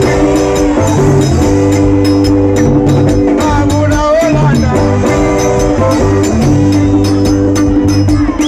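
Loud live band music: sustained chords over a bass line, with a steady beat of percussion ticks and a gliding melody line.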